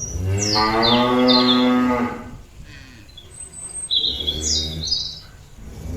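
Cow mooing to call the rest of the herd: one long, loud moo of about two seconds, then a second, quieter moo about four seconds in. Short bird chirps sound over both.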